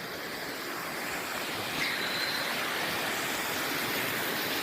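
Steady rush of flowing water from a creek or waterfall, growing slightly louder about two seconds in.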